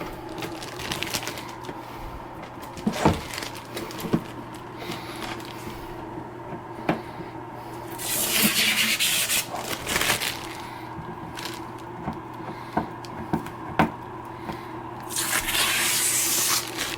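Protective plastic film being peeled off the new AMS 2 Pro: two long hissing tears, about eight seconds in and near the end, among scattered clicks and knocks of hard plastic being handled, over a steady low hum.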